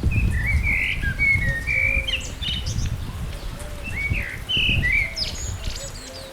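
A songbird singing short whistled phrases of gliding notes, in two bouts with a pause of about a second in the middle, over a loud, uneven low rumble.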